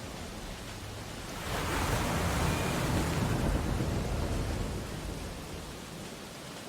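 Ocean waves on a beach: over a steady hiss of surf, one wave breaks and washes in, swelling up about a second and a half in and slowly fading away.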